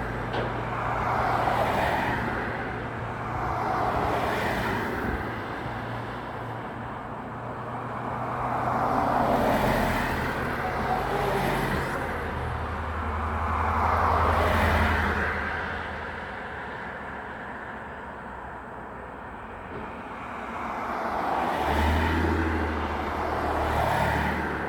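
Road traffic: vehicles passing one after another, each swelling and fading over a few seconds, over a steady low engine hum.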